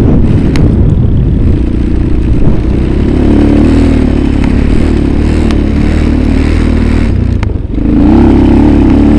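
A small vehicle engine running hard under load close to the microphone, its pitch wavering with the throttle. About seven and a half seconds in it briefly drops off, then picks up again.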